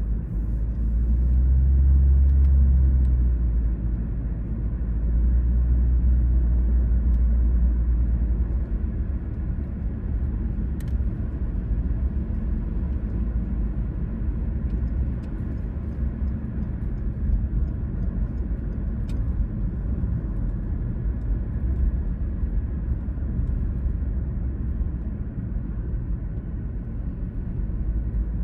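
Car driving along suburban roads: a steady low rumble of engine and tyre noise, swelling louder twice in the first several seconds.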